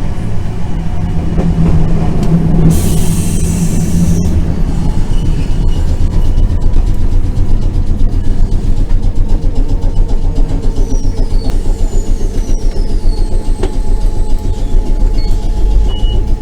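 Randen tram running on the rails, heard from inside the car: a steady low rumble, with a hiss lasting about a second and a half some three seconds in. Later come a few thin high squeals that slide down in pitch.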